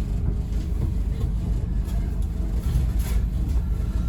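Diesel engine of a Scania N270UD OmniCity double-decker bus running with a steady low rumble.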